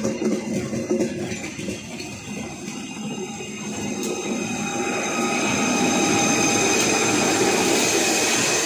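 Passenger coaches of a diesel-hauled train rolling past at close range, their wheels knocking over the rail joints. From about halfway the sound swells as a GE CC 201 diesel-electric locomotive draws alongside, with a thin steady whine over the rumble.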